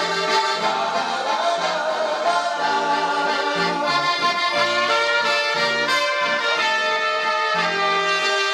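Instrumental passage of a German pop-folk (Schlager) song: the band plays a melody over a stepping bass line, with no singing.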